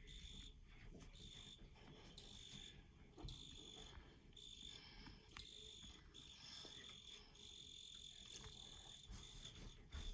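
Field cricket chirping: a faint, high, thin trill that comes in repeated bursts with short gaps between them, with a few sharp clicks along the way.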